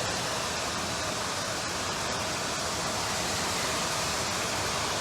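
Floodwater rushing, a steady even noise of flowing water with no break.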